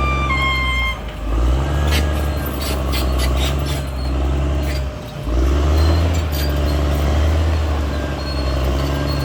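CAT D6R XL bulldozer's diesel engine working under load, dropping off twice and picking back up, with a run of sharp metallic clanks partway through. A brief tone steps down in pitch near the start.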